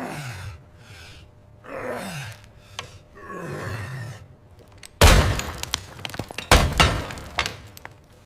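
Three swelling, noisy sounds that fall in pitch, then a sudden loud crash about five seconds in, followed by a run of sharp clattering knocks and a second heavy hit, like something heavy breaking or falling.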